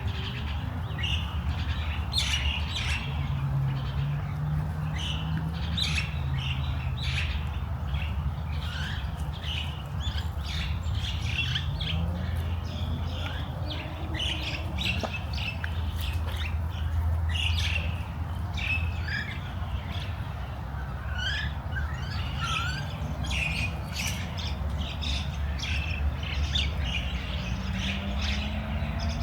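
Several songbirds chirping and calling over a steady low hum.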